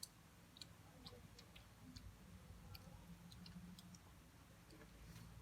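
Faint, irregular small clicks and crackles of someone chewing crispy fried chicken, over a low steady hum.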